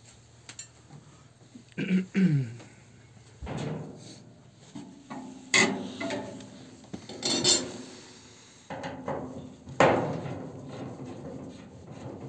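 Metal parts of a cast-iron stove clanking and knocking as they are handled and fitted, several separate strikes with a short ring after each, the loudest near the end.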